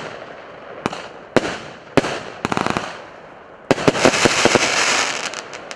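A consumer fireworks battery (cake) firing. There are sharp bangs about half a second to a second apart, then a quick run of crackling pops. About four seconds in comes a dense crackling salvo of many pops, which fades out near the end.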